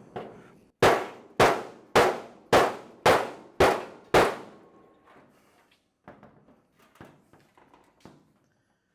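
Hammer blows on the steel trunk lid of a 1928 Ford Model A, springing the flat panel upward to match the curve of the quarter panels. There are seven sharp, ringing strikes, about two a second, then a few lighter knocks.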